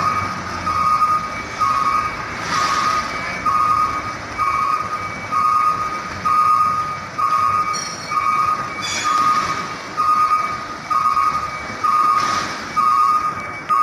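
A truck's reversing alarm beeping steadily, about one and a third beeps a second, with a few short bursts of hiss.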